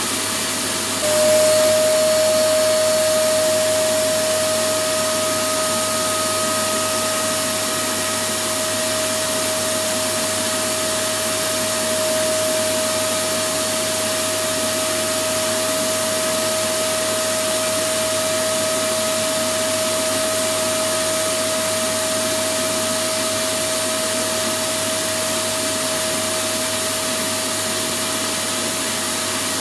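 Vacuum cleaner running steadily: a continuous rush of air with a steady motor whine over it. The whine and the loudness step up about a second in, then hold.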